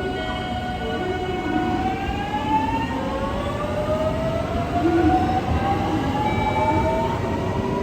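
Electric train accelerating, its traction motors' whine climbing steadily in pitch over a constant rumble of running gear.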